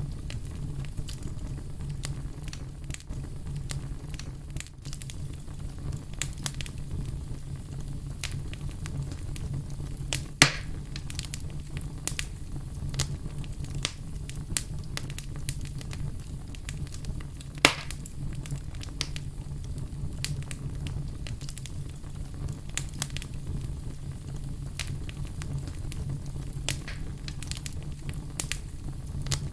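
Fire crackling: a steady low rumble with frequent small irregular pops, and two louder snaps about ten and eighteen seconds in.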